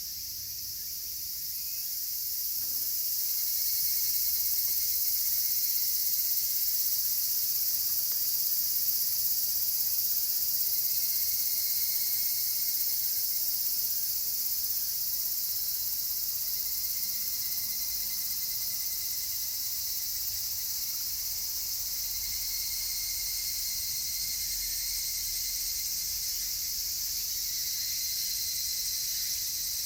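Chorus of cicadas droning steadily in a high, hissing band, swelling over the first few seconds and then holding.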